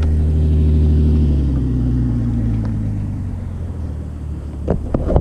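Racer Alpha RC50 moped's small single-cylinder four-stroke engine idling steadily at a stop, left running to cool during its run-in. It grows somewhat quieter after about two seconds, and a few short knocks come near the end.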